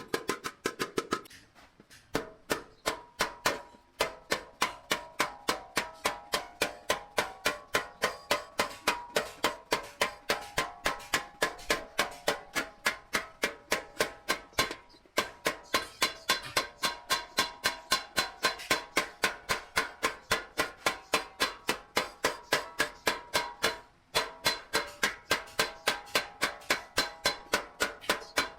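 Hand hammer striking sheet metal in a fast, steady rhythm of about three or four blows a second, each blow ringing. The hammering pauses briefly a few times.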